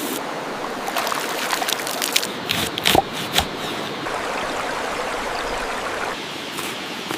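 Burger patties sizzling on a hot stone: a steady frying hiss with scattered sharp pops and crackles, most of them around the middle.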